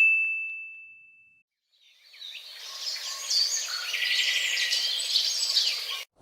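A single high, bell-like ding that rings out and fades over about a second and a half. Then, from about two seconds in, a bird-chorus ambience of many chirps over a hiss, which cuts off suddenly near the end.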